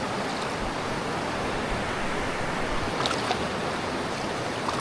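Shallow river water rushing steadily, an even hiss of flowing water.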